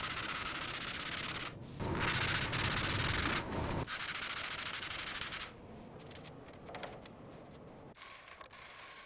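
Rough rubbing or scraping noise in three bursts of about a second and a half each, then quieter with a few scattered clicks.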